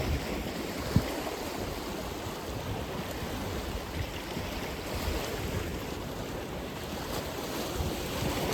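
Atlantic Ocean surf washing in a steady rush, with wind buffeting the microphone in low rumbles and a short thump about a second in.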